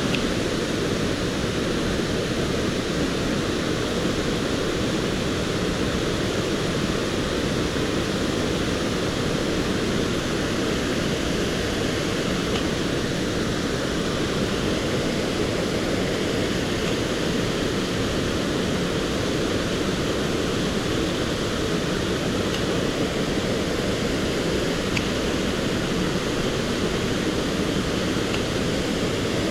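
Mountain stream rushing steadily: an even, unbroken wash of flowing water.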